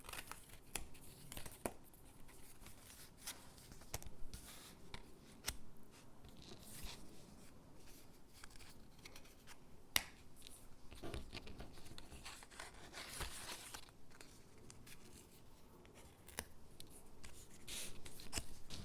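Stickers being peeled from their backing sheet and pressed onto paper gingerbread cutouts: soft peeling and paper rustling with scattered light clicks and taps, one sharper click about ten seconds in.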